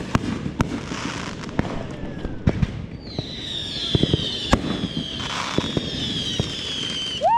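Consumer fireworks going off: a run of sharp bangs and pops, joined from about three seconds in by a whistling firework's high whistle that slowly falls in pitch. Right at the end a loud steady tone cuts in.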